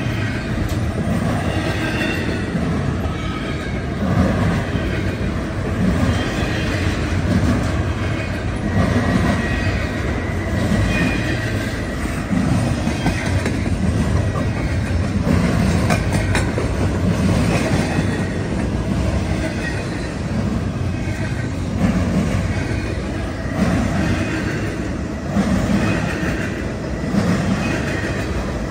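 Double-stack intermodal freight train rolling past: a steady rumble of steel wheels on rail, with a rhythmic clatter swelling about every one and a half to two seconds as each car's wheel sets go by.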